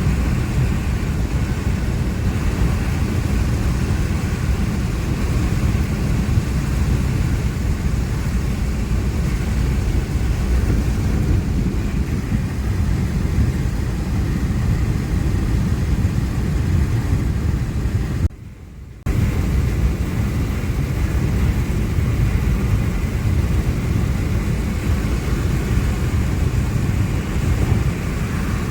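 Steady rumble of road and wind noise from a moving vehicle, which cuts out for under a second about 18 seconds in.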